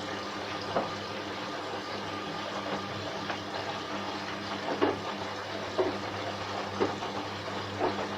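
Candy front-loading washing machine filling with water for its first rinse: a steady hum of water coming in, with short splashes or knocks about once a second from about halfway on.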